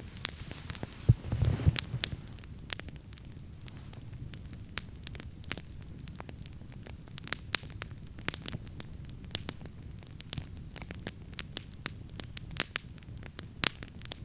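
Wood campfire crackling: irregular sharp pops and snaps over a low steady rumble, with a couple of louder low thuds about a second in.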